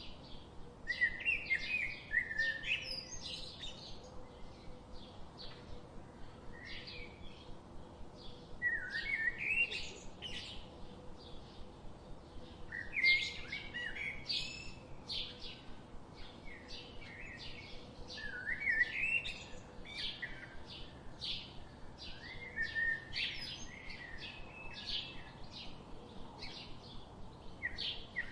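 Songbirds chirping and singing. A louder warbling phrase comes about every five seconds, with a steady run of short chirps in between, over a faint steady background hum.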